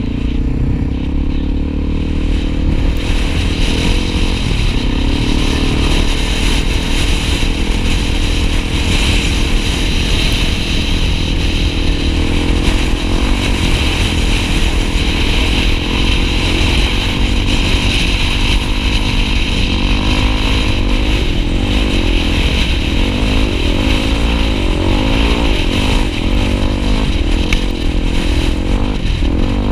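Single-cylinder engine of a Honda XR250 Tornado trail motorcycle running steadily, then rising and falling in pitch with the throttle over the last third, with a hiss over it.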